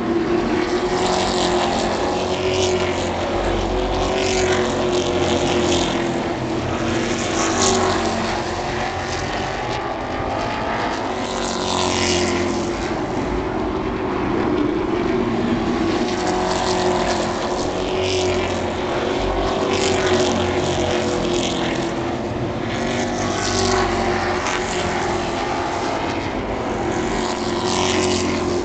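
Super Trucks, stock-car-style race trucks, racing on an oval with their engines running hard. The engine noise is continuous and swells every few seconds as trucks go past.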